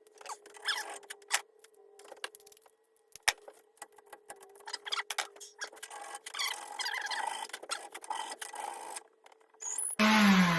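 Light rubbing and scraping with scattered clicks from hand-working on an axe, with a man whistling softly at the start and again later. Near the end a loud sound with falling pitches starts suddenly.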